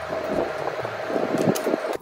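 Close-miked eating sounds: a mouthful of food being chewed, in irregular wet strokes, over a steady hum.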